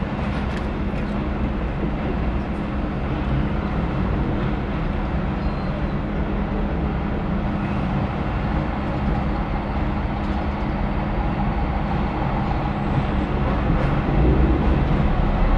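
A car's engine idling with a steady low hum, heard from inside the cabin while stopped in a toll lane, with surrounding traffic noise. It grows a little louder near the end.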